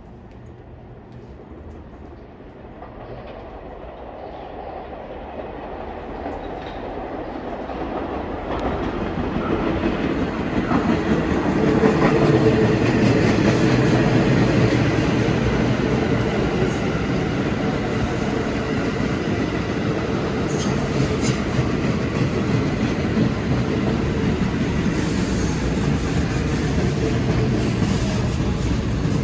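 An R46 New York City subway train approaches, growing steadily louder over about twelve seconds, then runs past at full volume with a steady rail rumble and the clack of wheels over rail joints.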